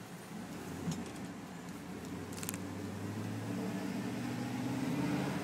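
The 2005 Chevy Silverado 2500 HD's 6.0-litre Vortec V8 running under acceleration as the truck pulls away, heard from inside the cab and getting steadily louder. A few light clicks sound about one and two and a half seconds in.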